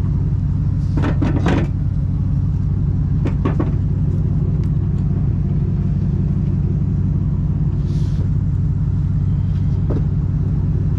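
An engine idling steadily with a low hum. A few clicks and knocks sound over it, with a brief hiss about eight seconds in.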